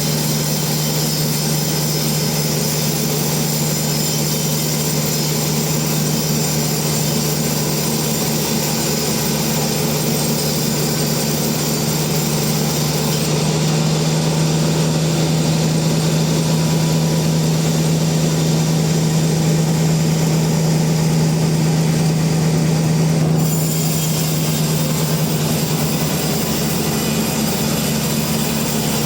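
Sawmill machinery running with a steady, loud hum. About halfway through, the hum grows a little louder for roughly ten seconds, then settles back.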